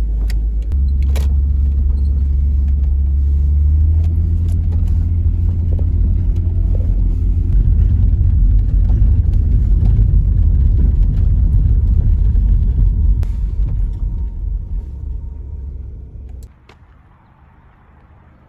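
VW Eurovan on the move, a loud low engine and road rumble that cuts off suddenly near the end.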